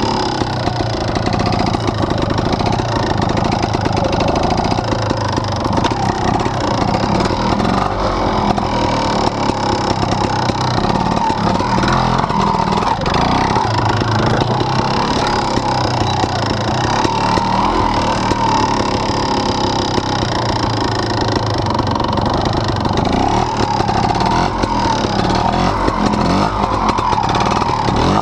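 Fantic 300 trials motorcycle's two-stroke single-cylinder engine running without a break, its pitch rising and falling as the throttle is worked over rocks and rough ground.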